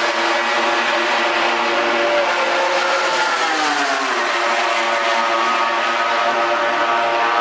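MotoGP racing motorcycle's four-cylinder engine running at high revs, the pitch dropping about three seconds in as it slows, then holding steady.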